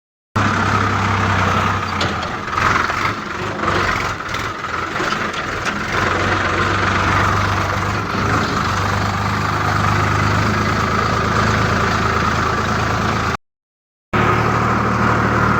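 Sonalika DI 745 III 4x4 tractor's diesel engine running steadily at low revs, with uneven clatter over its first few seconds. The sound drops out completely for under a second near the end.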